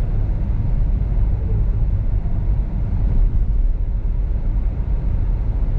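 Steady low rumble of a car driving, heard from inside the cabin: engine and tyres on a snow-covered road.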